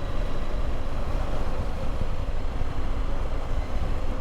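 Motorcycle on the move: engine running steadily under way, mixed with a steady rush of riding noise.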